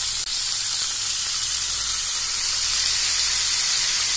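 Yard-long beans (barbati) frying in hot oil in a kadai: a steady, even sizzle.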